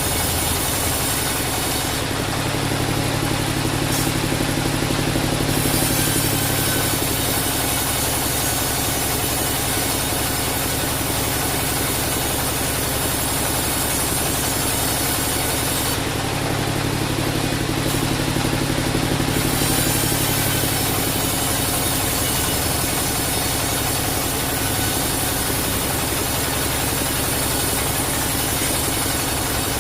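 Bandsaw sawmill running steadily. Twice, about two seconds in and again about sixteen seconds in, the sound shifts for a few seconds: the hiss drops out and a low hum comes forward.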